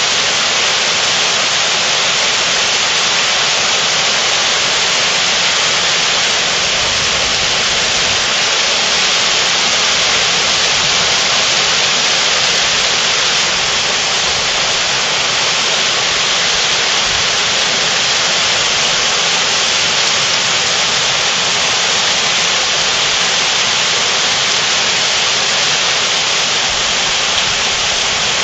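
Heavy thunderstorm downpour: rain falling steadily in a loud, even hiss.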